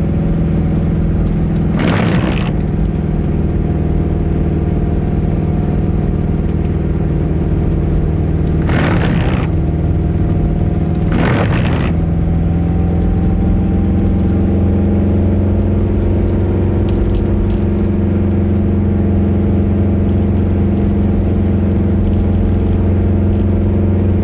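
Subaru Leone's flat-four boxer engine running steadily under way, a deep rumbling note whose pitch creeps slowly upward over the second half. Three brief rushing swishes cut across it about 2, 9 and 11 seconds in.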